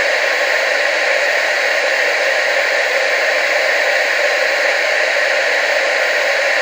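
Television static: a steady, unbroken hiss that does not change in level or pitch.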